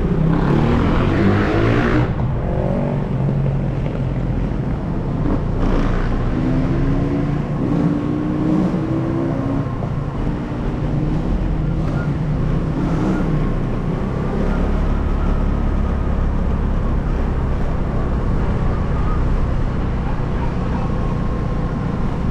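A motor vehicle's engine running while driving, its pitch climbing as it speeds up a couple of times, over a steady low road rumble.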